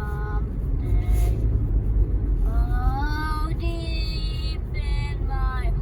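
A young child's high voice singing wordless notes, some gliding and one held for about a second, over the steady low rumble of a car on the road.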